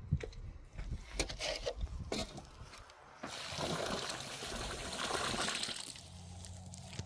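A few knocks and clatters, then water trickling and sloshing for about three seconds.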